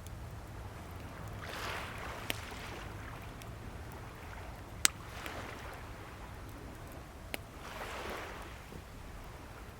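Waves washing ashore in three soft swells about three seconds apart, with a wood bonfire crackling and giving three sharp pops, the middle one loudest.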